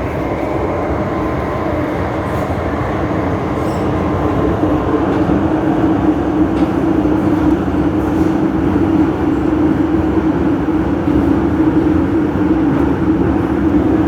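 MTR Island Line metro train running between stations: a steady rumble of wheels on rail with a steady motor hum, growing a little louder over the first few seconds.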